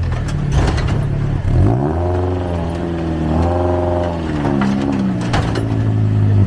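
Off-road 4x4 vehicle's engine being revved over a steady lower engine note. The revs climb about two seconds in, hold, and drop back around five seconds. A few sharp knocks are heard.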